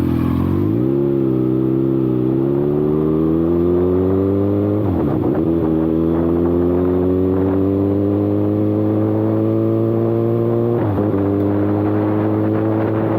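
Kawasaki ZX-6R inline-four sport-bike engine run without an exhaust canister, accelerating with the revs climbing steadily. The pitch drops sharply twice, about five and eleven seconds in, at upshifts, then climbs again.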